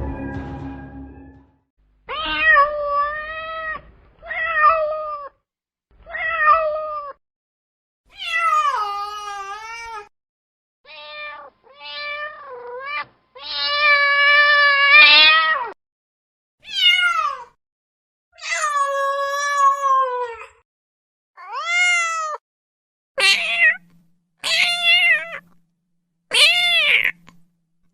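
A cat meowing over and over: about a dozen separate meows a second or two apart, most short and bending in pitch, with one longer, drawn-out meow around the middle.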